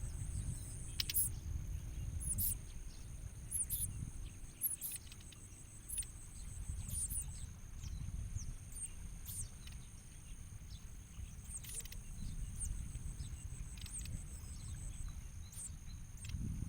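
Ciblek koya (bar-winged prinia) giving short, sharp high chirps, roughly one every second, over a steady high-pitched insect drone and a low rumble of wind or handling noise.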